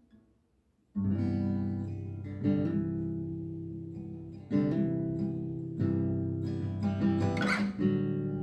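Acoustic guitar strumming a slow song intro: after about a second of quiet, chords are struck roughly every one to two seconds and left to ring.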